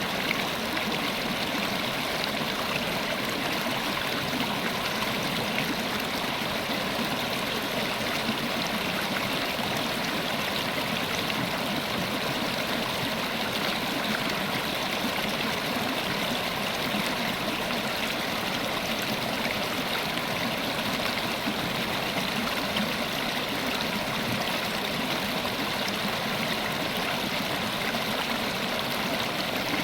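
River water flowing and babbling steadily over rocks.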